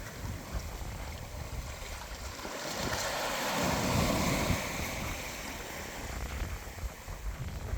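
Atlantic Ocean surf: one wave swells to a peak about three to four seconds in and washes back down, over a steady low rumble of wind buffeting the microphone.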